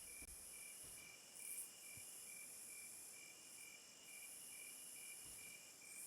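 Faint insect chorus: a high, steady buzzing drone with a lower, regular chirp repeating about two to three times a second, typical of crickets.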